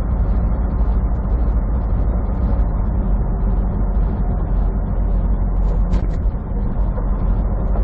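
Steady low rumble of a semi truck's diesel engine and road noise, heard from inside the cab while driving, with one short click about six seconds in.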